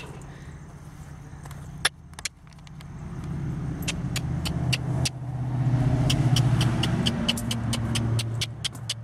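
A motor vehicle's engine running with a low drone, growing louder over a few seconds and then holding, with sharp clicks and ticks over it.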